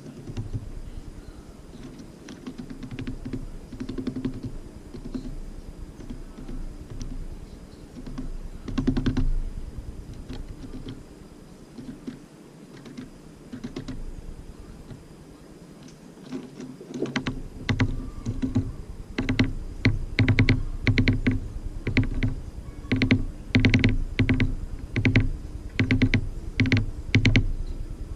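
Small birds (tits) pecking and tapping at a wooden bird feeder close to the camera: scattered sharp taps, then a fast, louder run of rapid pecks with a dull knock under each from a little past halfway.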